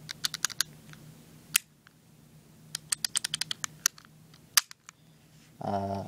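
Clusters of small, sharp clicks from the controls of a WE Tech M1911A1 gas blowback airsoft pistol being worked by hand, with one louder click about four and a half seconds in. A short hummed voice sounds near the end.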